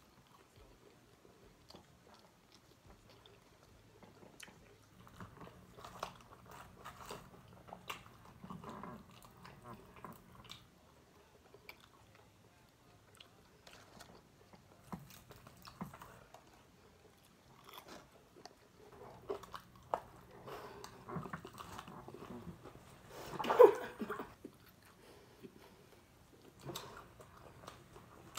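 Close-up chewing and biting of fried chicken wings, with crunching of the fried skin, scattered small wet clicks and smacks of the mouth. One brief louder sound comes about three-quarters of the way through.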